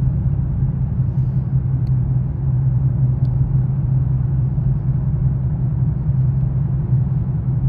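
A car driving: a steady low engine and road rumble with an even drone, unchanging throughout.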